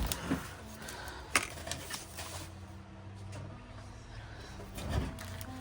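Craft supplies being handled and put away at a work table: a few light clicks and knocks, with a duller thump near the end, over a faint steady hum.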